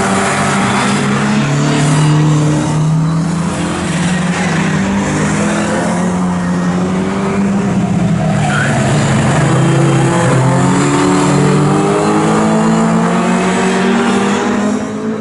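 Historic pre-1966 touring car racing engines running hard at high revs, their pitch stepping up and down as the cars change gear and brake and accelerate through the corners.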